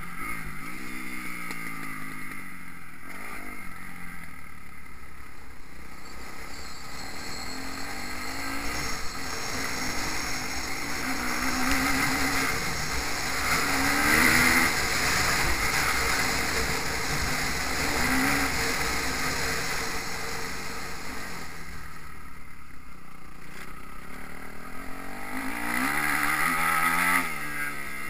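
Motocross bike engine revving hard and easing off as it rides the track. The pitch climbs and falls repeatedly through the gears near the start and again near the end, with a rougher, louder stretch in between, and wind buffeting the microphone.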